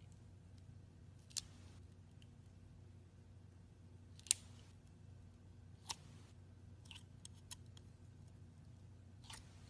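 Faint handling sounds: about six short, sharp clicks or snips spaced a second or more apart, the loudest a little over four seconds in, over a low steady hum.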